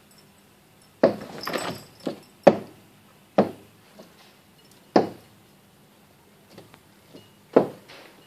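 A pet striking a window pane: about six irregular knocks and thumps against the glass and frame, the first followed by a brief rattle, the loudest near the end.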